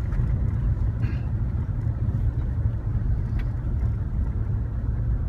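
Steady low rumble of a small homemade three-wheeled vehicle running, with no rises or breaks.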